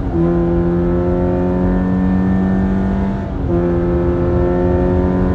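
A 2024 Subaru Forester Wilderness's 2.5-litre flat-four, through a Nameless twin-can muffler, pulling hard under full acceleration. Its steady drone steps in pitch at the start and again about three and a half seconds in, at the CVT's simulated shift points.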